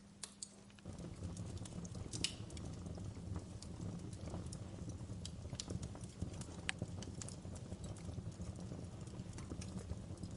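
Wood fire crackling, with irregular sharp pops and snaps over a low steady rumble of burning that comes up about a second in.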